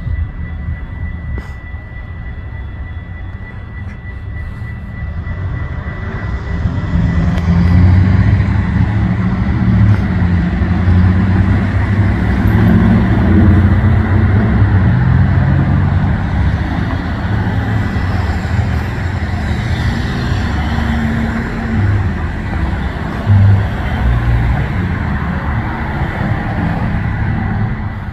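A train going by: a deep rumble builds over the first several seconds, stays loud for most of the time, then drops off sharply near the end. A thin, steady high tone runs throughout.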